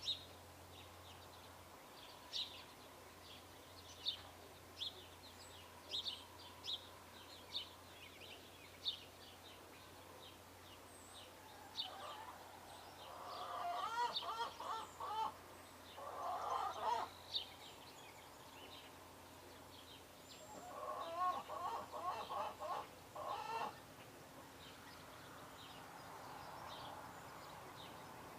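Birds calling: short high chirps repeat every second or so, then two spells of lower, rapid stuttering calls from a larger bird.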